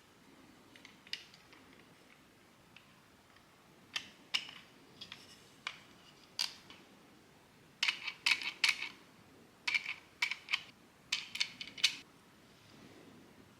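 Hard plastic clicks and snaps of 3D-printed parts being handled and fitted together, a few scattered clicks at first, then quick clusters of clicks in the second half.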